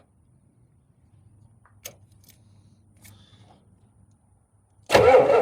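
A few faint clicks of handling, then near the end a diesel truck engine starts cranking on the starter, loud, with a fast, even pulsing.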